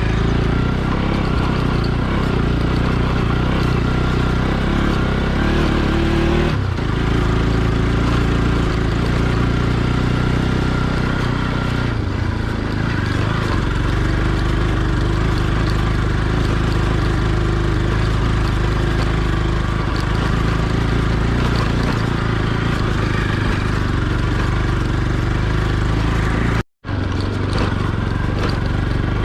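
Motorcycle engine running steadily under way, its pitch shifting a few times with the throttle, over rushing wind and road noise. The sound cuts out for an instant near the end.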